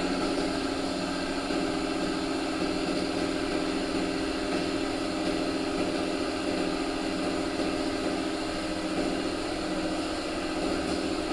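A motor-driven tool or machine running steadily at a constant pitch.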